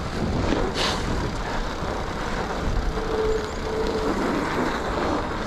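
Mountain bike ridden over a groomed, snow-packed trail: a steady low rumble of tyres and wind on the microphone, with a brief hiss about a second in.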